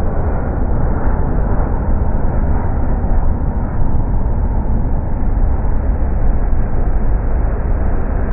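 Jet engines of an Airbus A380 airliner: a loud, steady roar with most of its weight in the low rumble, holding level throughout.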